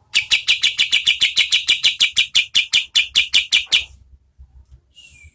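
Kapas tembak songbird giving its rapid-fire call: an even run of sharp chirps, about seven a second, for nearly four seconds, stopping abruptly. A short, softer call follows near the end.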